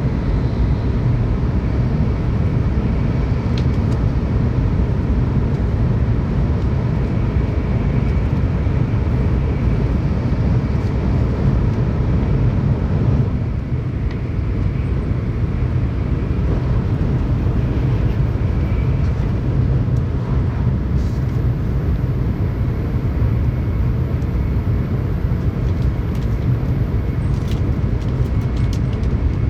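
Tokaido Shinkansen train running at speed, heard from inside the passenger cabin: a steady low rumble of running noise that eases slightly about halfway through.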